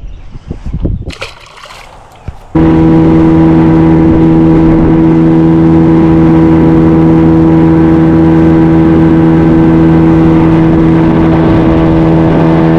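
Jet jon boat's outboard motor running at a steady, unchanging pitch, loud and close, starting suddenly about two and a half seconds in. Before it come a few irregular knocks and rustles.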